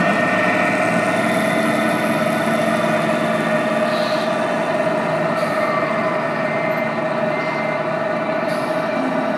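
Tamiya 1/14-scale radio-controlled trucks running: a steady hum with a held whine over it.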